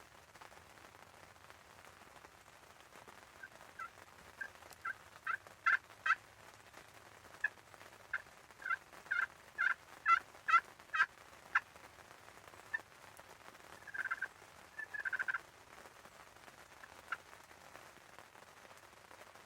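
Turkey calling: a string of short, sharp notes that grow louder and come closer together, followed by a brief rattling call near the end.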